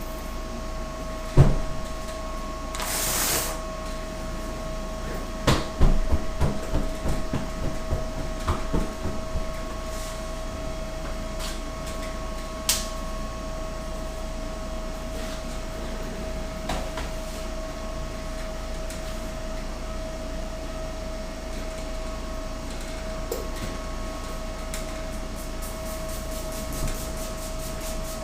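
Workshop handling noises over a steady electrical hum: a sharp knock, a short hiss a couple of seconds later, then a few seconds of clattering knocks and rattles, with only scattered clicks after that.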